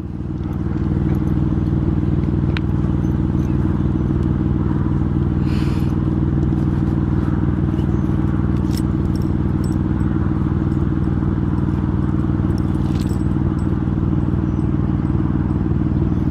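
A machine or engine running steadily, a constant low hum with several fixed pitches that swells up over the first second. A few faint clicks and scrapes sound above it.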